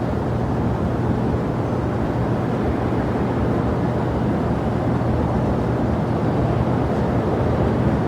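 Jet airliner engines running, a steady, even noise with a constant low hum beneath it.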